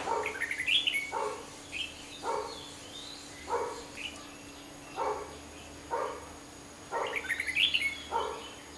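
Red-whiskered bulbuls calling in quick, high, warbling chirps near the start and again late on. Through it a lower, short call repeats about once a second.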